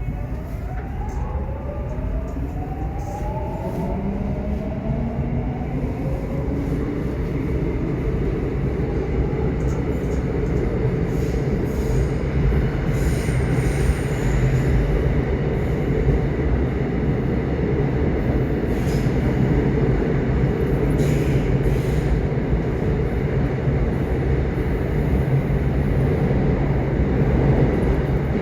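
Subway train running, with a rising whine over the first few seconds as it picks up speed, then a steady rumble of wheels on track.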